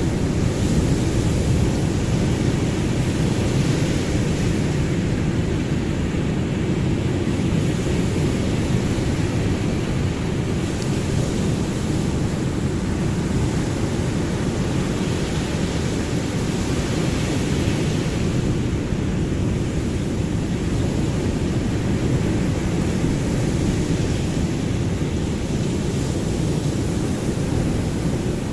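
Ocean surf: a steady, deep rumble of waves, with washes of hiss swelling and fading every few seconds.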